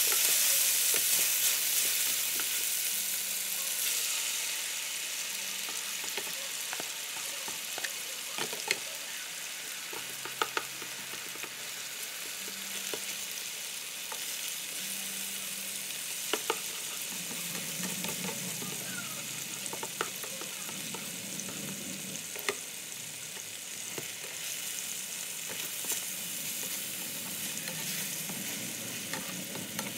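Chicken and egg sizzling in an electric skillet while being stirred with a plastic spatula, with scattered sharp clicks of the spatula against the pan. The sizzle is loudest over the first few seconds, then settles to a steady hiss.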